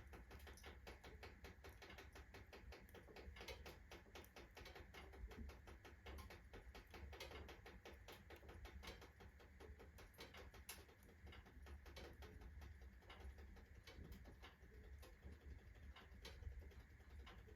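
Faint, dense crackling of a wood fire burning fresh logs and kindling in a fireplace stove: many small pops and clicks several times a second, a few sharper ones standing out.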